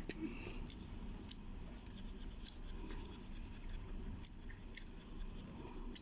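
Colouring in on paper: a drawing tool scribbling in rapid back-and-forth strokes, the scratching thickest from about two seconds in until near five.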